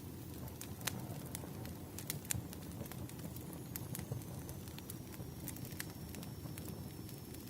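Wood fire crackling: irregular sharp pops and snaps over a steady low background.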